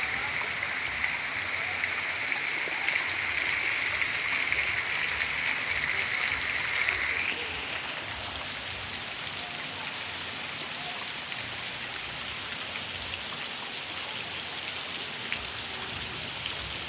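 Steady rain falling, with scattered drop ticks. A higher hiss over it stops about seven seconds in, leaving a slightly quieter, even rain.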